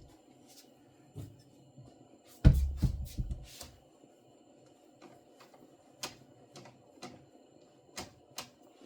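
Kitchen handling noises: scattered light clicks and taps, with a heavier clatter and knock about two and a half seconds in that lasts about a second.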